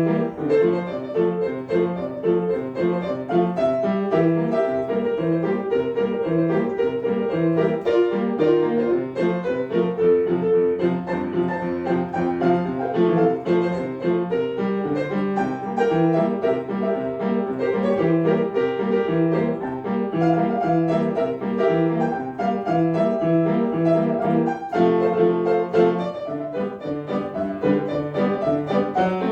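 Piano playing a simple tune with a regular accompaniment of bass notes and chords, heard from across the room.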